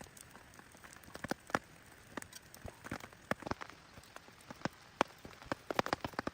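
Irregular light clicks and taps, a few a second, over a faint steady hiss.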